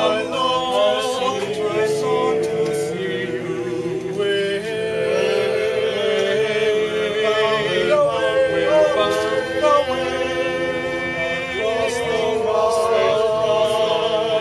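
A choir singing in harmony, several voice parts holding long, sustained notes with vibrato.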